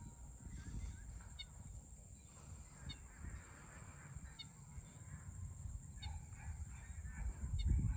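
Geese honking over a steady high-pitched drone, with low rumbling that swells near the end.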